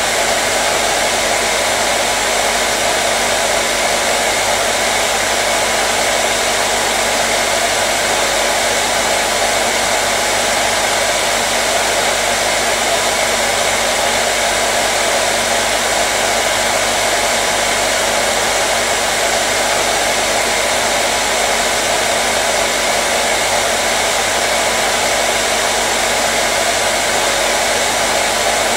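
Hair dryer running steadily: an even rush of blown air with a steady motor hum underneath, unchanging throughout.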